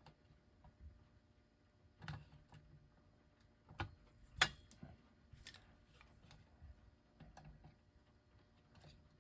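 Scattered small clicks and taps from handling a mantel clock's case and parts while working its hands loose. The sharpest click comes about four and a half seconds in.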